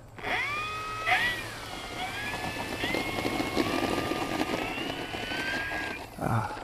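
Electric motor and propeller of an E-flite 1.5 m P-51D Mustang RC plane throttling up for a takeoff roll: a whine that climbs in pitch in steps over the first three seconds, then holds. It cuts off about six seconds in as the takeoff is aborted.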